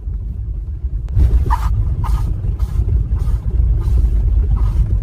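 Car rumble, heavy and steady, with a few faint short cries rising above it in the first couple of seconds.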